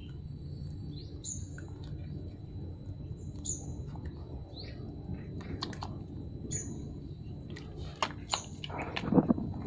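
Short high bird chirps repeating every second or two, over a low background hum. Near the end, a run of wet clicks and smacks from puppies suckling at their mother's teats grows louder.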